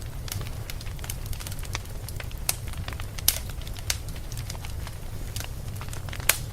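Fireplace crackling with frequent small snaps and a few louder pops, the sharpest about halfway through and near the end, over a steady low rumble.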